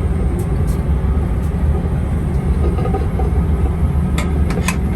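Steady low rumble of a Boeing 777-300ER airliner cabin in cruise flight, the constant engine and airflow noise, with a few light clicks near the end.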